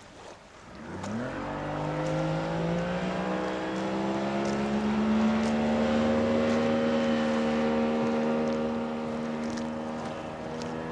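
Small motorboat's engine throttling up about a second in, its pitch rising quickly, then running steadily at speed.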